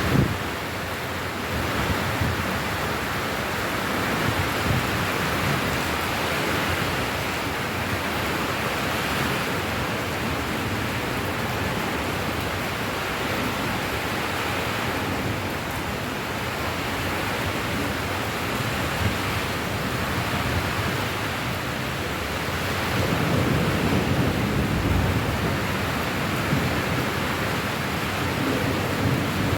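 Steady heavy rain, an even hiss of falling water. About three quarters of the way through, a low rumble swells up for a couple of seconds and fades.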